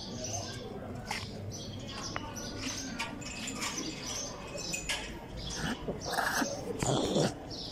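Small birds chirping over and over, with a louder, lower call standing out about six to seven seconds in.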